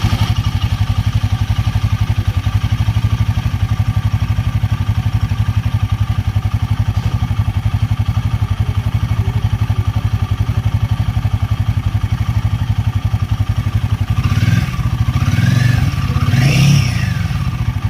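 Royal Enfield Himalayan 450's single-cylinder engine idling steadily, then blipped twice near the end, the pitch rising and falling each time. Its engine noise has been fixed at the third service, and the owner says it runs like new.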